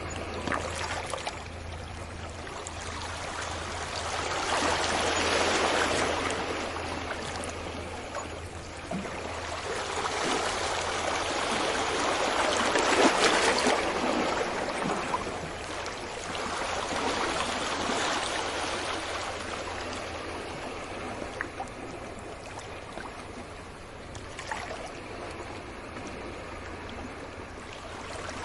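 Sea waves breaking on a beach and washing up the shore. The surf swells and fades in slow surges several seconds apart, loudest about 13 seconds in.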